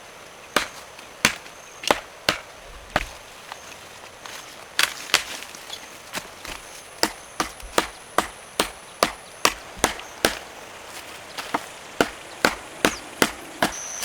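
Wood being chopped with a blade: repeated sharp strikes, about two to three a second, with a brief lull about three seconds in.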